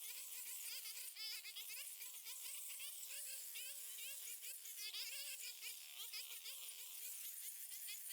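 Insects buzzing: a faint, wavering drone throughout, with many short, high chirps repeating over it.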